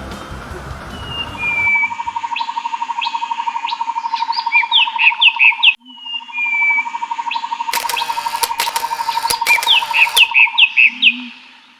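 Birds chirping in short rising and falling calls over a steady pulsing trill, breaking off suddenly about halfway and then starting over in almost the same pattern. Before that, in the first couple of seconds, a fuller sound that continues the music playing just before ends.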